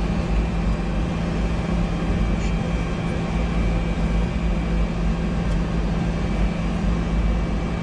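Steady flight-deck noise of a Boeing 747-200 on the ground with its engines running: a constant rumble with a steady low hum, unchanging throughout.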